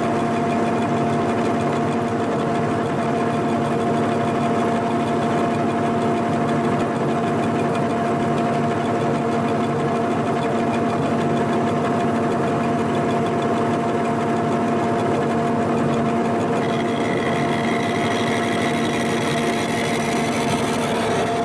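Milling machine running steadily with a dovetail cutter, machining the worn dovetails of a lathe cross slide; about three-quarters of the way through, a higher whine joins the hum.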